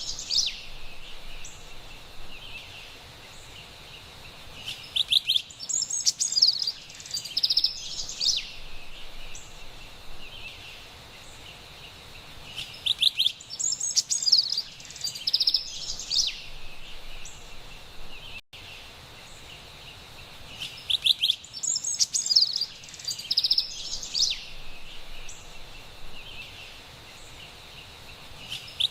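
Carolina wren singing: bouts of about three seconds of rapidly repeated loud phrases, recurring roughly every eight seconds, three times plus one starting near the end, over a faint steady forest background.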